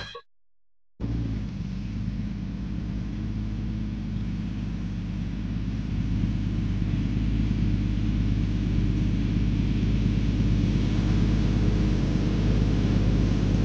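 Jeep Grand Cherokee ZJ's engine running at a steady idle, a low even hum that starts about a second in.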